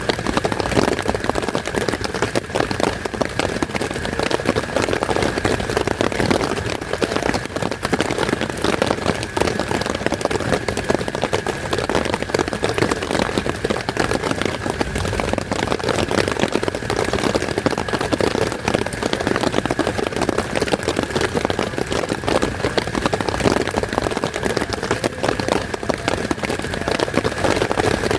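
Heavy rain falling steadily as a dense, even hiss of many drops, with a faint steady high tone beneath it.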